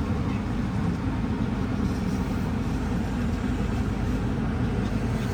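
Steady low rumble of a car, with no distinct events.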